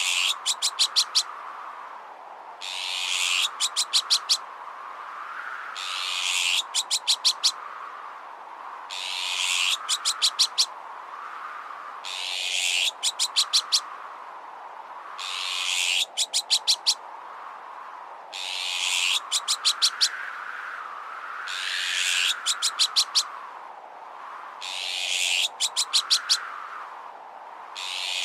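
Looped bird-repellent sound effect. Every three seconds or so a high hiss swells up and breaks into a quick run of about five sharp ticks, over a whistling tone that wavers slowly up and down throughout.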